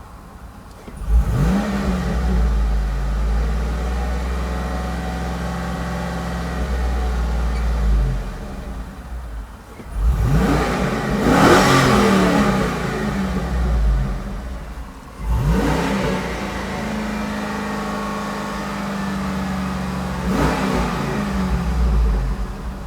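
2006 GMC Yukon Denali's 6.0-litre V8 being revved at standstill four times. About a second in it rises and holds for several seconds before dropping back. A sharp blip follows near the middle, then another held rev, and a short blip near the end.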